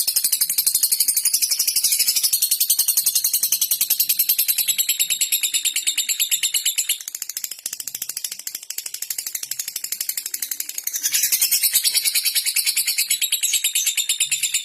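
Lovebird giving its 'ngetik' (typing) call: a rapid, even, ticking chatter like a ratchet, high-pitched. It drops in level about seven seconds in, then comes back strongly near eleven seconds.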